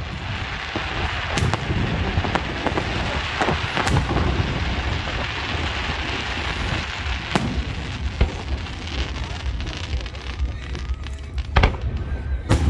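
Fireworks going off: a series of sharp bangs about every few seconds, with a dense stretch of crackling through the first half and low rumble underneath.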